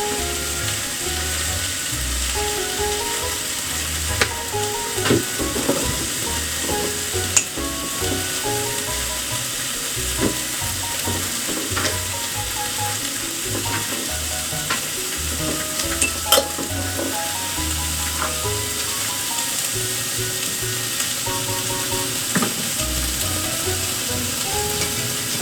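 Food frying in a pan, a steady sizzle with a few sharp utensil knocks now and then, over quiet background music.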